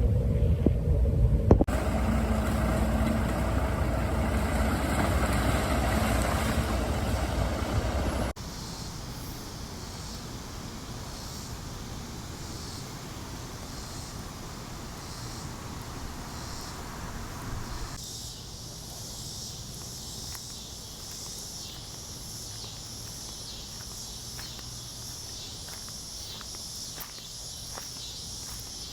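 A loud low rumble for the first eight seconds, cutting off abruptly to quieter outdoor ambience. About two-thirds of the way through, a steady high-pitched chorus of cicadas comes in, pulsing evenly.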